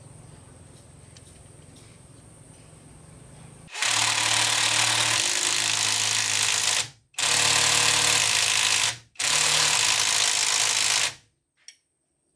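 A power tool run in three bursts of a few seconds each, starting a little under four seconds in, each cutting off sharply.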